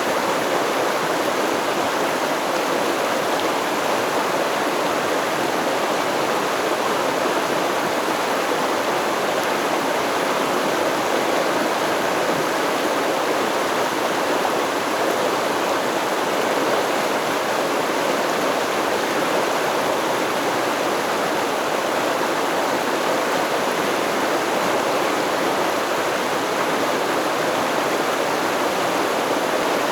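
A shallow stream flowing over stones in a steady, even rush of water, with no birds or other sounds.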